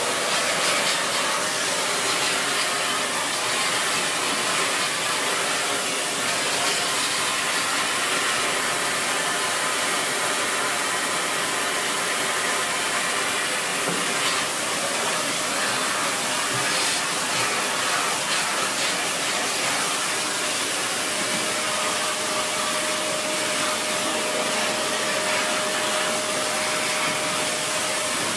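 Dyson Big Ball Animal cylinder vacuum cleaner running steadily under suction. A steady tone comes in about three quarters of the way through.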